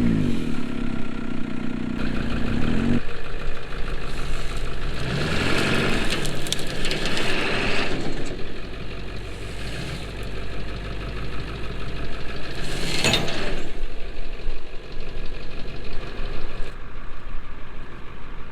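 Jeep engine pulling under load, revving up and dropping back toward idle several times. A sharp burst of noise stands out about 13 seconds in.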